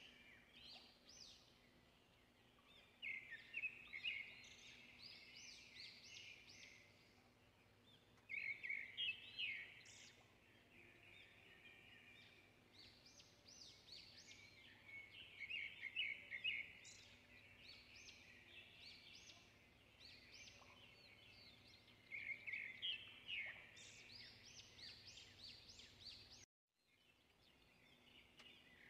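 Small birds chirping and twittering in quick trills, in bursts every several seconds, over a faint steady low hum.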